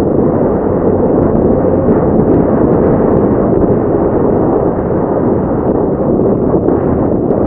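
Loud, steady wind rush buffeting the microphone on a moving motorcycle, with no clear engine note standing out.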